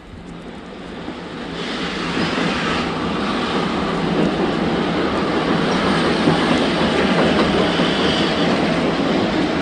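Recorded sound effect of a railway train running along the track, with wheels clattering over the rail joints. It swells up over the first couple of seconds, then runs on steadily.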